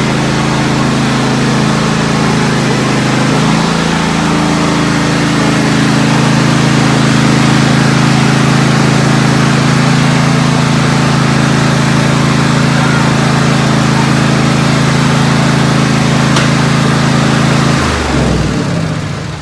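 Tractor engine running steadily, its pitch shifting briefly about four seconds in, then winding down and stopping near the end as it is shut off.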